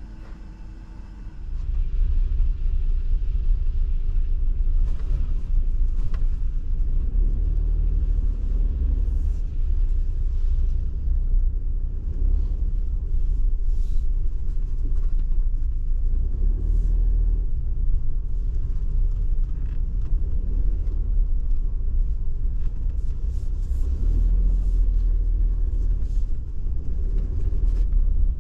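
Steady low road rumble of a kei car driving, heard inside the cabin, with faint scattered ticks over it. The rumble sets in about a second and a half in.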